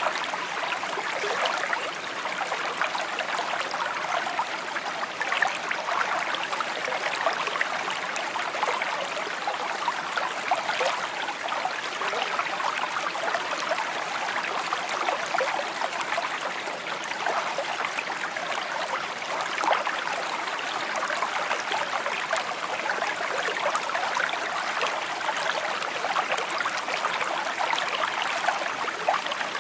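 A shallow stream babbling and trickling over stones, a steady burbling with many small splashes.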